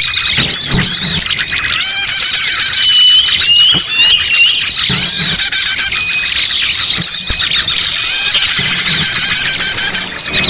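Dense chorus of many small birds chirping, trilling and whistling over one another without a break. It is the kind of massed bird-calling used to lure birds into a trap.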